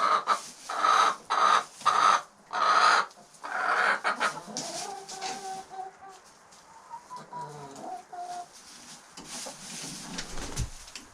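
Domestic hens clucking: a run of loud, sharp clucks about twice a second over the first few seconds, then softer, drawn-out calls.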